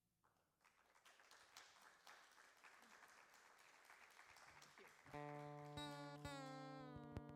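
Faint applause for about four seconds, then a strummed chord on an acoustic guitar rings out, some of its notes bending in pitch as it rings.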